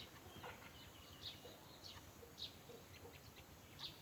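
Faint, scattered short bird chirps, high-pitched, about five of them spaced irregularly, with a few fainter low notes between them.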